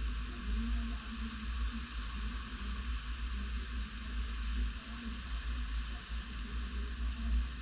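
Tropical-storm wind gusting, buffeting the microphone with an uneven low rumble over a steady hiss.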